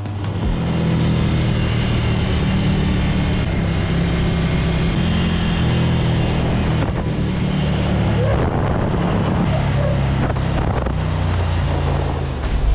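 Motorcycle engine running at a steady cruise, with wind buffeting the microphone.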